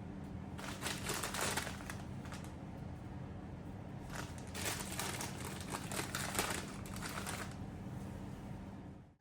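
Crinkling and rustling of something being handled, in two spells starting about half a second and four seconds in, over a steady low hum.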